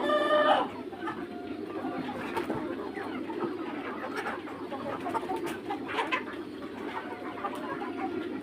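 A flock of young Mía chickens clucking and murmuring steadily. A loud pitched call sounds in the first half second, and short clucks are scattered through the rest.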